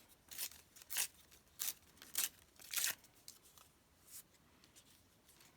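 Paper being handled and rustled: five short crisp crackles about half a second apart, then a fainter one a little later.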